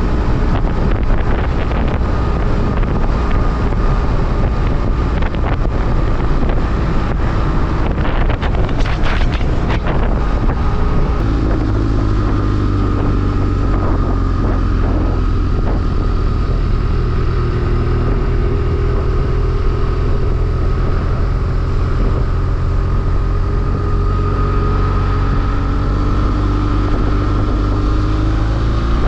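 BMW F800R motorcycle's parallel-twin engine running while riding, with wind noise on the microphone. The wind rush is heavy for the first ten seconds or so, after which the engine's steady note comes through more clearly, and it revs up near the end.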